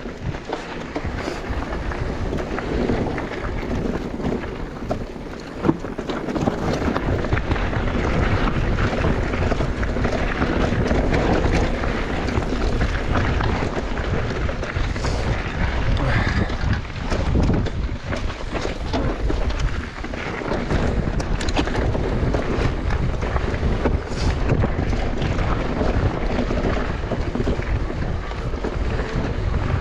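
Wind buffeting the microphone of a mountain biker riding downhill, over the continuous rumble of tyres on a rough bike park trail and the bike's frequent rattles and knocks.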